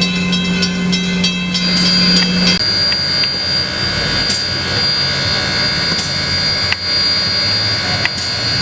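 Train rolling by. A steady low tone stops about two and a half seconds in, then a steady high whine carries on over the rolling noise, with a few sharp clanks.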